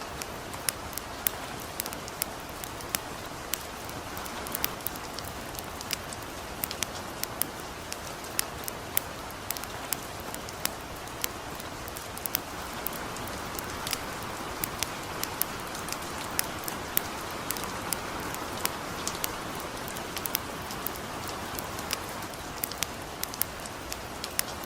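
Light rain mixed with a crackling campfire: a steady hiss with frequent sharp, irregular crackles and pops.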